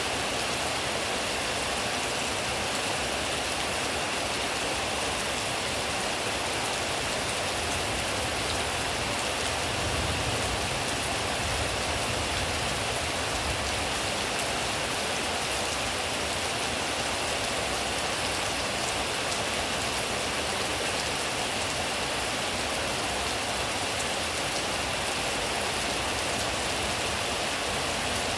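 Steady rain falling, an even hiss that holds at the same strength throughout, with a faint low rumble about ten seconds in.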